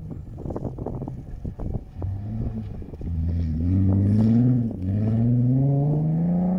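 Rally car engine revving up as it approaches, its pitch climbing from about three seconds in, dropping once for a gear change and climbing again. Before it, irregular short knocks.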